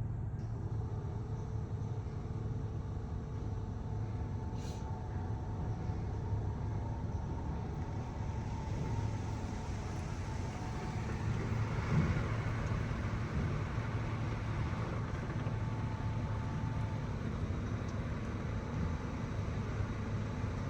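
Steady low mechanical hum with a faint higher tone over it, swelling for a couple of seconds with a single knock about twelve seconds in.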